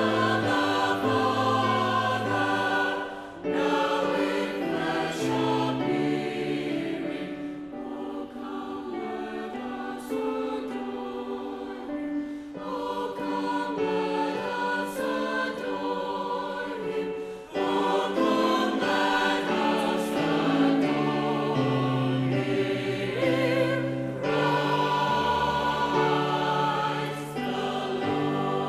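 A choir singing in slow, held chords, phrase after phrase, with short breaks between phrases about 3 seconds in and again about 17 seconds in.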